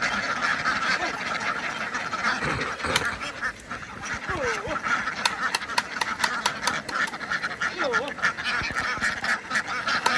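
A large flock of domestic ducks quacking nonstop, many calls overlapping into a dense din.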